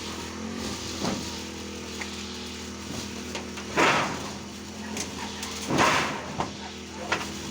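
A steady engine hum, with two short noisy bursts about four and six seconds in and a few light knocks.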